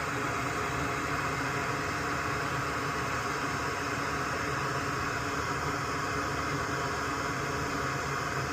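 A steady, even hiss of a small fan running.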